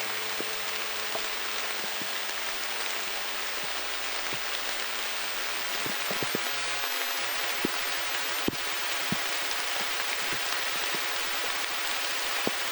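Steady rain falling, a constant hiss with scattered sharper ticks of single drops landing close by.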